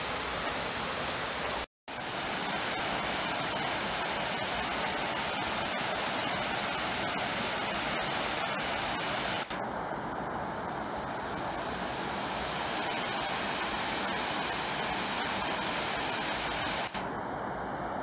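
Steady rush of flowing water, cutting out for a moment about two seconds in.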